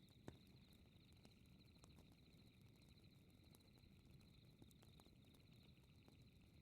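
Faint night ambience: crickets chirping in a steady, fast-pulsing high trill over a low rumble, with occasional small pops from a crackling fire. The sharpest pop comes about a third of a second in.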